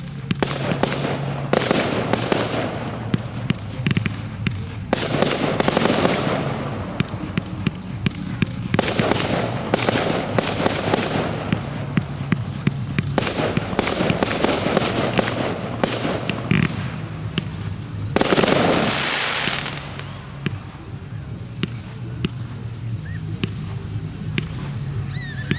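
Professional fireworks display: a steady run of sharp bangs, with long swells of hissing noise every few seconds, the loudest about three-quarters of the way through.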